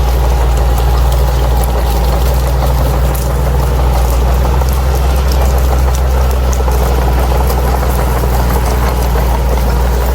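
Bulldozer's diesel engine running at a steady speed: an even, deep drone, with faint scattered clicks and rattles over it.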